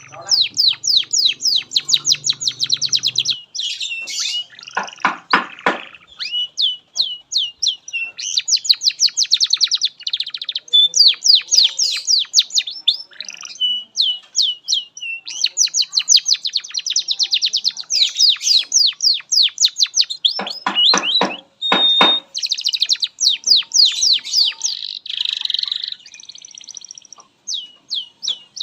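Canary singing a long, continuous song of rapid trills and repeated whistled notes, with a few harsher rattling rolls partway through.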